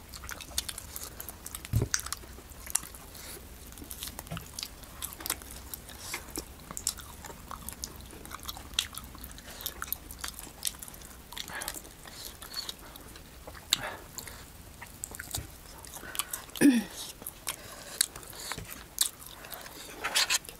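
Close-up chewing and biting of roasted buffalo meat, with frequent wet smacks and clicks of mouths and fingers. About three-quarters of the way through comes one short low vocal hum.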